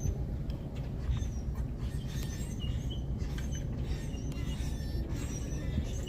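Scattered short high bird chirps over a steady low rumble, with a few faint clicks.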